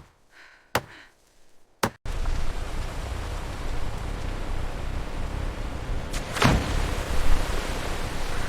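Three sharp wooden knocks, like a tool striking timber, about a second apart. About two seconds in, the sound cuts to a steady rushing noise, which swells briefly around six and a half seconds.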